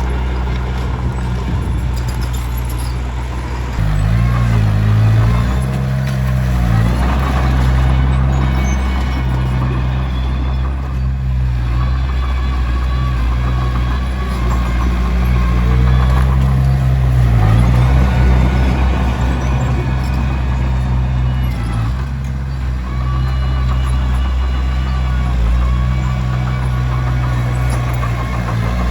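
Komatsu D21P bulldozer's diesel engine running under load, its note rising and falling as it works, with a noisy clatter from the machine over it.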